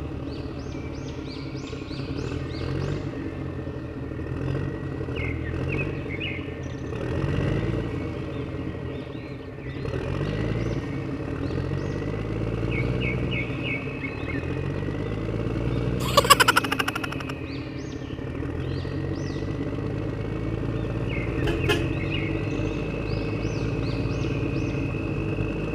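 Engine sound of a remote-control construction truck running, its pitch rising and falling as it revs, with birds chirping over it. A brief loud rattling burst comes about sixteen seconds in.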